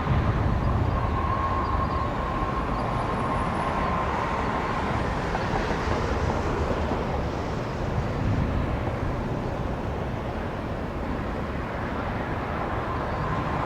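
Jet airliner's engines at takeoff power: a steady, deep roar with a faint high whine, easing off slightly near the end.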